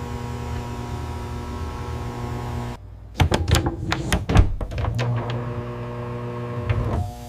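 Steady factory machinery hum that breaks off suddenly about three seconds in into a run of sharp mechanical clanks and knocks, loudest a little after four seconds, then settles back into a steady hum.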